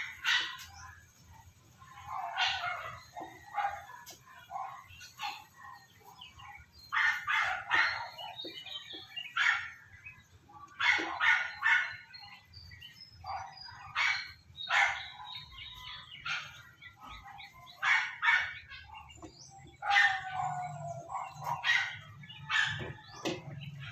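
Persian cat yowling and meowing over and over in distress while being bathed, short loud cries about a second apart, some falling in pitch.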